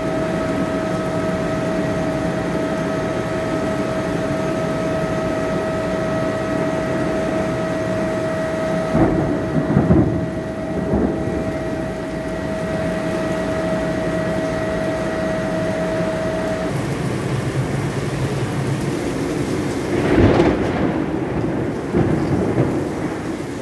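Frecciarossa high-speed train pulling slowly out of the station, heard as a steady rumble with a thin electrical whine that stops about two-thirds of the way through. Two louder rumbling swells come about 9 seconds in and again near the end.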